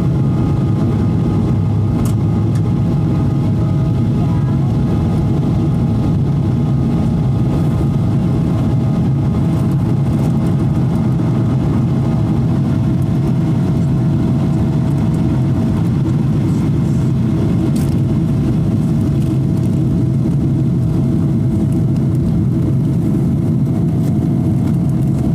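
Steady cabin drone of a Boeing 777-200 airliner in flight: jet engine noise and rushing air give a constant low rumble with a couple of faint steady whining tones above it.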